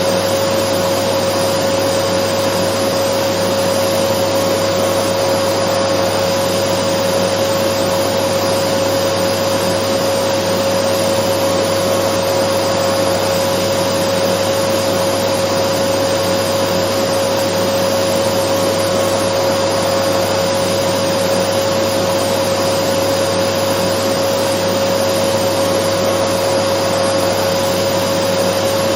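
Dyson vacuum cleaner running steadily: an even rush of air with a constant motor whine, unchanging throughout.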